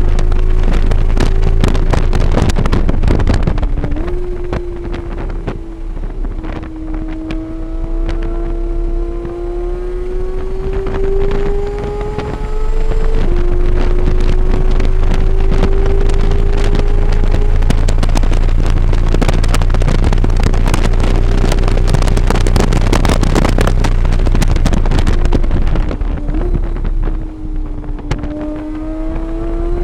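Car engine heard onboard during a lap on a race track, the pitch climbing under acceleration with sudden drops at upshifts. The engine goes quieter off throttle, with a quick rev blip on a downshift near the end, and wind buffets the microphone throughout.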